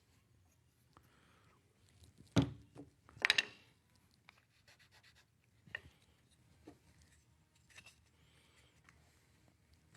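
Wood pieces handled on a workbench: a sharp knock, then a short scrape of wood on wood, followed by a few light taps.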